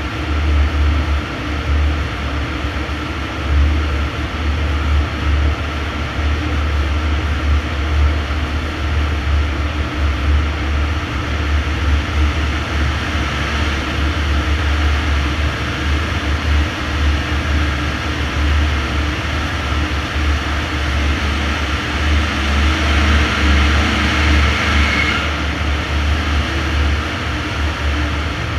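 Tuned BMW 320d four-cylinder turbodiesel running on a chassis dyno together with a large cooling fan: a steady, loud drone and rush of air. Near the end a hiss and whistle build up, then cut off suddenly.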